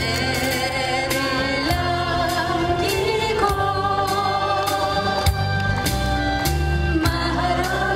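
Live singing over an amplified band backing track with a steady beat, the voice holding long notes with vibrato.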